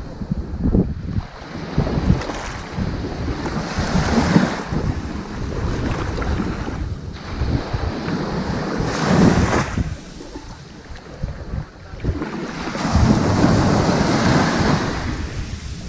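Ocean waves washing onto a sandy beach: a steady wash that swells every few seconds as each wave breaks and draws back, with a low rumble throughout.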